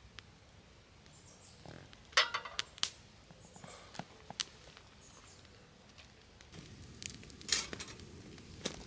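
Sharp clicks and clinks of objects being handled: a cluster about two seconds in, a couple more near four seconds, and a busier rustling stretch near the end. A bird gives short, high, falling chirps every second or two.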